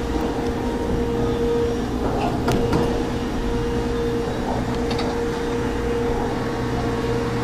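Steady electrical hum of an arcade claw machine, with a few light clicks.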